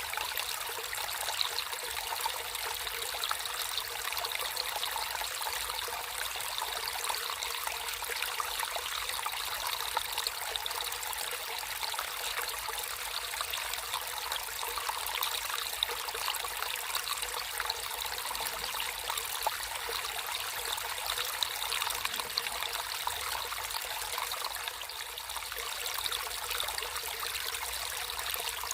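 A small stream of water trickling and babbling steadily, a fine splashy hiss without any deep rush.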